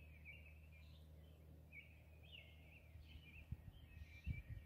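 Faint songbird singing in repeated warbling phrases over a steady low hum, with a few low bumps near the end.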